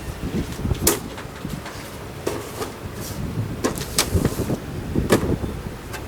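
Sharp clicks and knocks at irregular intervals, a few seconds apart: handling noise from the parts of a Bush Craft Inc. Ultralight Fire Stand being unpacked and fitted together.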